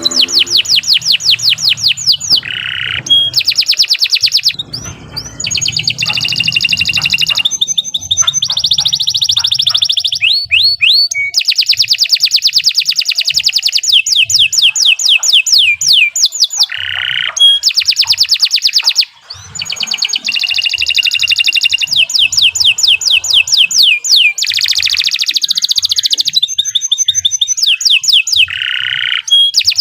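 Domestic canary singing a long, unbroken song of fast trills and rolls. Each phrase is a rapid run of repeated high notes, passing straight into the next with only a brief break about two-thirds of the way through.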